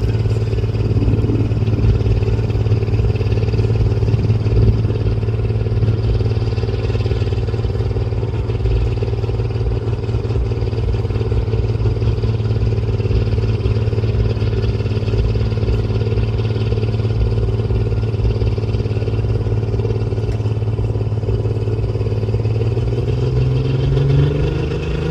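Turbocharged pulling truck's engine held at steady high revs to spool the turbo before a pull, then revs climbing in the last few seconds.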